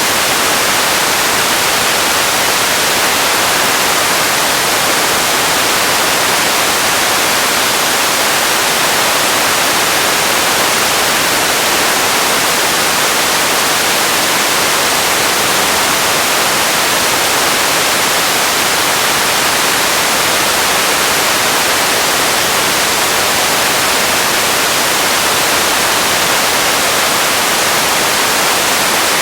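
Radio static: a steady, even hiss of noise, with most of its energy in the upper range. It runs unchanged throughout.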